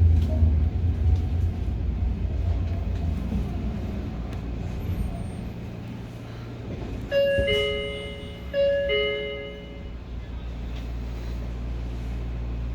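Train running rumble inside a Hokuriku Railroad 03 series trailer car, dying away as the train slows to a stop. About seven seconds in, the door chime sounds twice, a two-note falling chime each time.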